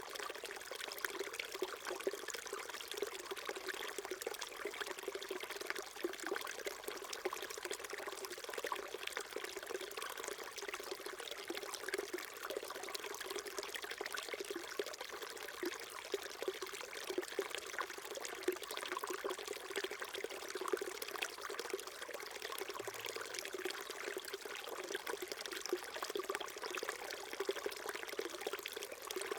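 A small stream flowing and trickling over rocks, a steady, even babble of water.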